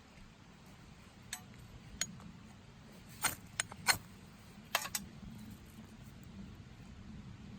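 Several light, sharp clicks and clinks of small hard objects being handled, about seven scattered over a few seconds, the loudest pair close together in the middle.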